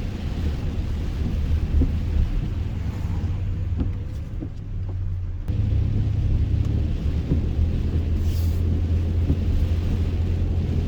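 Truck running on a rain-soaked road, heard from inside the cab: a steady low engine and road rumble with a hiss of tyres on the wet road. The rumble drops about four seconds in and comes back suddenly a second and a half later.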